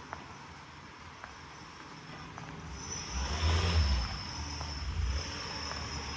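A car passes in the street, its low engine and tyre rumble swelling to a peak about three and a half seconds in and then easing to a steady hum. A thin high whine comes in about halfway through and holds.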